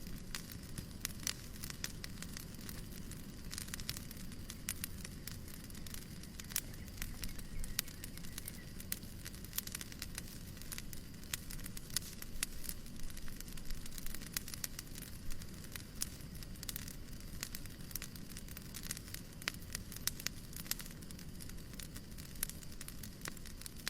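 Wood fire crackling in a fireplace: frequent irregular pops and snaps over a steady low rumble and hiss.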